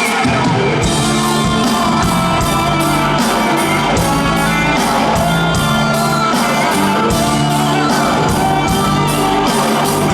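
Live band playing loud music with a steady drum beat and bass; the full band comes in right at the start, with some shouting over it.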